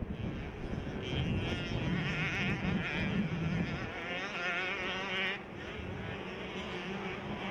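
Several 65cc two-stroke motocross bikes racing, their engines revving up and down in a high, wavering whine. The loudest part fades about five seconds in, leaving quieter engine noise.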